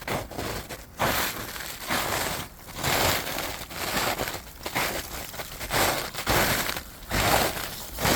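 A hiker's footsteps crunching on the trail surface while walking downhill, about one step a second.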